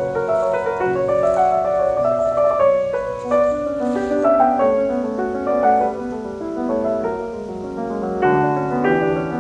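Solo piano music, a flowing run of notes and chords.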